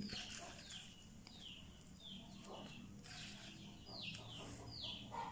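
Birds chirping over and over, a run of short, high, falling chirps about twice a second, with a few faint knocks from a stone pestle in a stone mortar.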